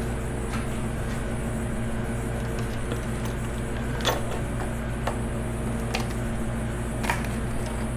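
A steady machine hum, with a handful of short sharp clicks of hand tools working on an engine during a teardown, one near the start and then roughly one a second in the second half.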